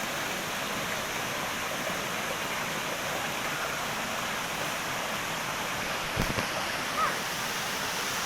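Waterfall water rushing steadily, with a brief low thump about six seconds in.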